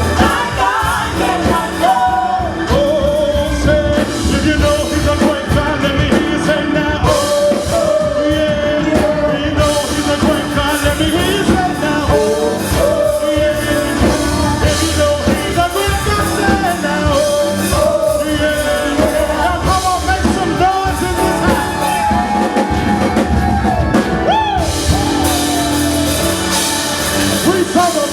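Live worship band playing with a singer, drums and band steady throughout.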